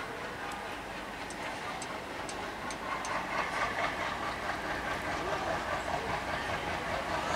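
Passenger train hauled by a diesel locomotive approaching, its engine and wheels clattering over the rails, growing louder about three seconds in.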